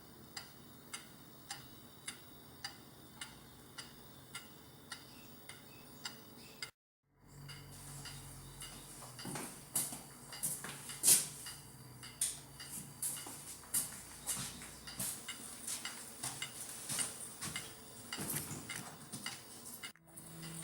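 A clock ticking steadily, about two ticks a second. After a brief cut about seven seconds in, irregular, louder clicks and clattering over a low hum.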